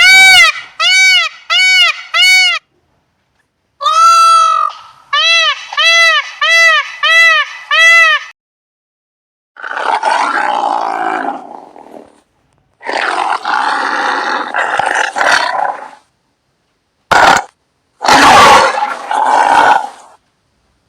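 Animal calls: two runs of short, high, arched yelping cries, about two a second, then several long, rough growling roars with pauses between them.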